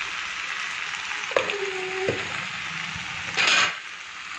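Taro, onion and tomato frying in oil in a wok, a steady sizzle, with turmeric just added. About a second and a half in comes a brief hum-like tone, and shortly before the end a short, loud rushing noise.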